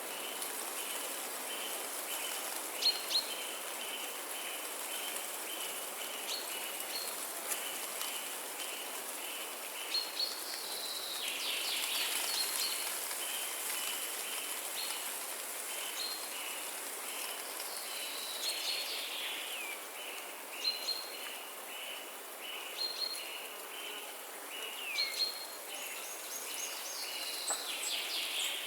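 Forest birdsong: a short chirp repeated about twice a second throughout, with other birds' calls sliding down in pitch now and then, over an even high hiss.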